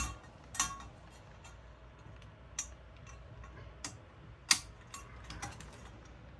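Several scattered sharp clicks and ticks, the loudest a little past four seconds in: metal wire fan clips being snapped onto a Thermalright CPU cooler's fans and heatsink.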